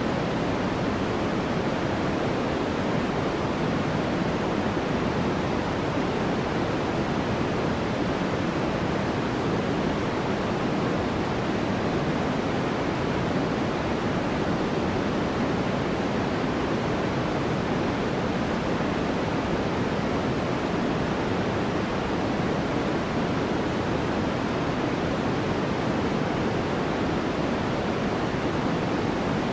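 Continuous white-noise sound for sleep, a steady unchanging hiss. It is weighted toward the low and middle range and thins out at the top, closer to pink noise than flat white noise.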